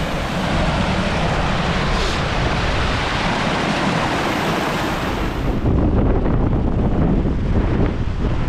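Strong wind blowing hard across an action-camera microphone, a loud rushing hiss. About two-thirds of the way through it turns into a deeper, louder buffeting rumble.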